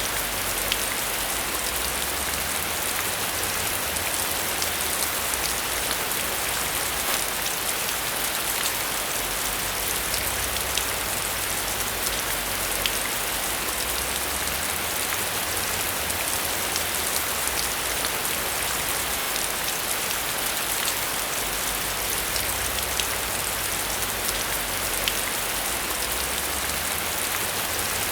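Steady rain falling, an even hiss with many individual drops ticking on a surface, over a low rumble.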